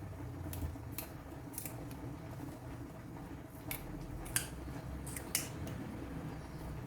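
Close-up eating sounds: a string of short, sharp clicks and smacks, about seven, irregularly spaced, over a low steady hum.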